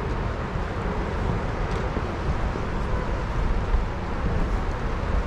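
Steady rushing roar of the Lower Falls of the Yellowstone River, an even noise heavy in the low end.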